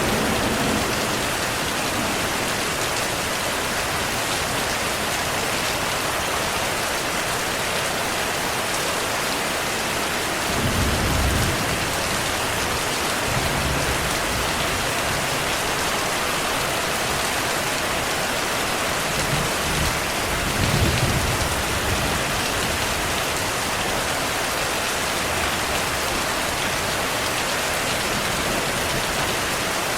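Steady heavy rain falling, with low rumbles of thunder about a third of the way in and again past the middle.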